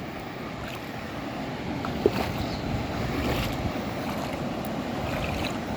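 Sea waves washing onto a beach, with wind buffeting the microphone. A single short, sharp tap about two seconds in.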